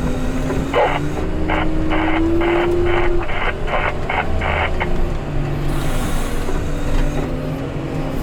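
Diesel engine of a heavy snow-removal machine running under load, its pitch climbing as it revs, with a back-up alarm pulsing about twice a second for a few seconds as it reverses.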